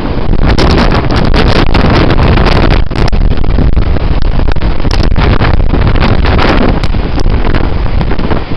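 Strong wind buffeting the microphone: a loud, steady rumble with repeated gusty blasts.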